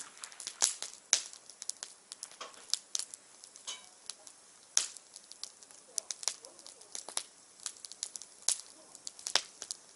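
Wood fire crackling, with irregular sharp pops of varying loudness, several a second.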